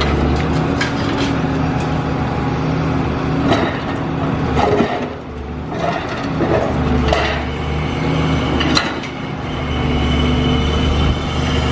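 Diesel engine of a Cat high-reach demolition excavator running steadily under load, easing off briefly about five seconds in and again near nine seconds. Scattered sharp knocks and cracks of breaking building debris sound over it.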